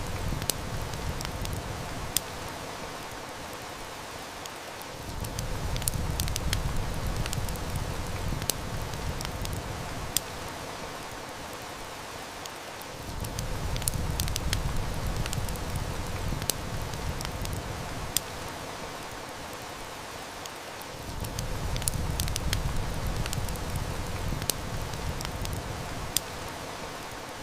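Steady hiss of heavy rain with a wood fire crackling, its snaps scattered through as sharp clicks. A low rumble swells and fades about every eight seconds.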